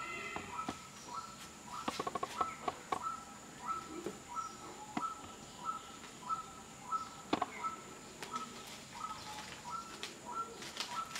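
A bird calling over and over, a short chirp that steps down in pitch, about twice a second, over a thin steady high whine; a few sharp clicks come in around two to three seconds in and again past seven seconds.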